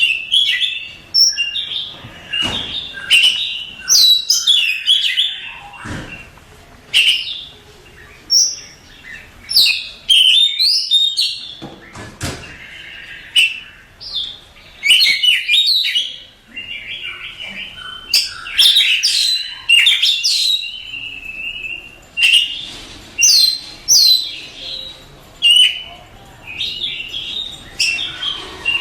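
Oriental magpie-robin (kacer) singing a long, varied song of loud whistled phrases and sharp chirps, with quick rising and falling notes and short pauses between phrases.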